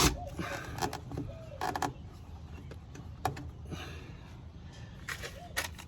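Scattered short creaks, scrapes and clicks of a truck door panel being worked by hand as a fastener that went through the panel is pulled back out.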